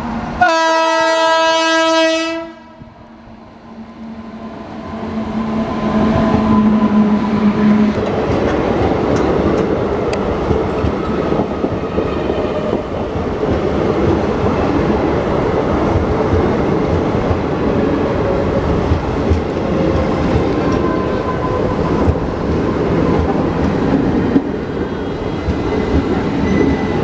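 Indian Railways electric locomotive sounding its horn once, a loud blast of about two seconds. Then the train runs past the platform, a sustained rumble of the coaches with wheels clattering over the rails.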